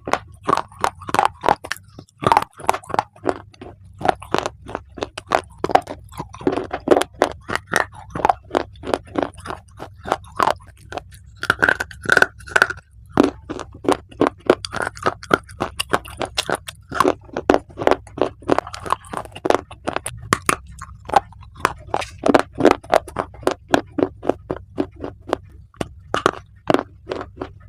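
Close-miked biting and chewing of crunchy baked clay: dense sharp crunches, several a second, with short pauses between bites.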